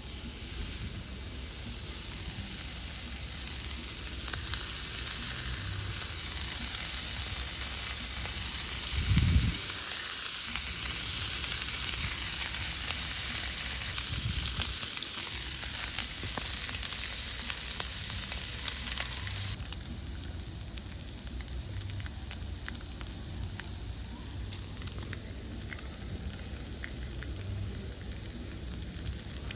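Homemade bacon sizzling as it fries, with scattered small pops. About two-thirds of the way through the sizzle suddenly drops to a quieter level and carries on.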